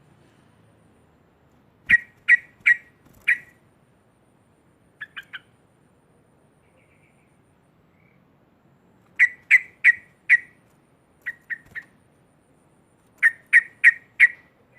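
Yellow-vented bulbul (trucukan) giving loud, sharp calls in quick runs of three or four notes, repeated several times with pauses between; some runs are softer than others.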